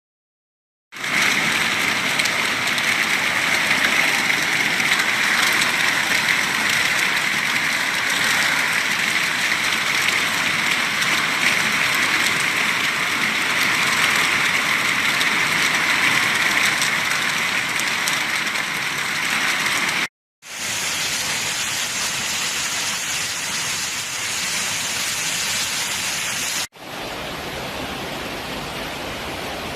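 Steady, loud rushing of heavy rain and running water, in three stretches cut off abruptly twice, the last one quieter.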